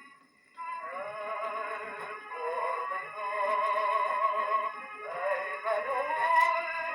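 Old gramophone record of a singer with strong vibrato, thin and tinny with no deep bass or high treble. The singing comes in about half a second in, after a short break.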